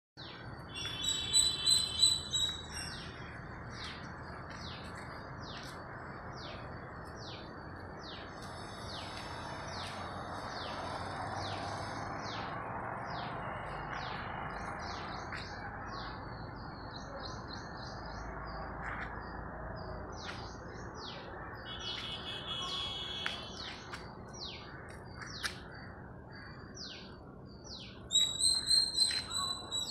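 Birds chirping: a steady run of short, high chirps, with louder repeated calls near the start, about two-thirds of the way through, and again near the end, over faint steady background noise.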